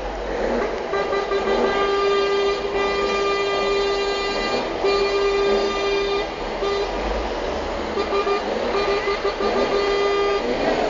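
Truck horn blowing one steady note in long blasts broken by a few short gaps, over steady street noise.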